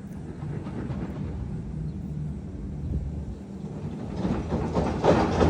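Steady low hum of an idling vehicle engine. Louder rustling or handling noise comes in about four seconds in.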